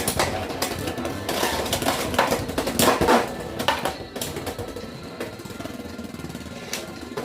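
Spinning Beyblade X tops clashing in a plastic stadium: a run of sharp clacks in the first four seconds over a continuous rattling whir, which grows fainter toward the end.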